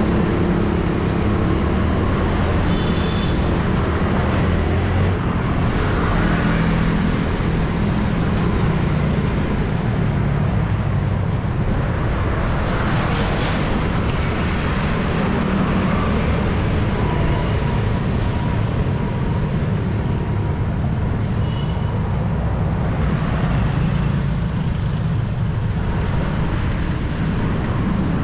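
Steady, dense city road traffic heard from within the traffic stream: motorbike and car engines running past without a break, with a brief high tone twice.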